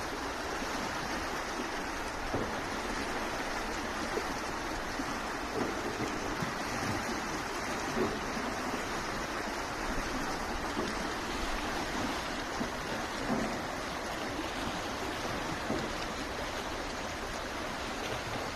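Steady rushing of flowing water, with small splashes now and then.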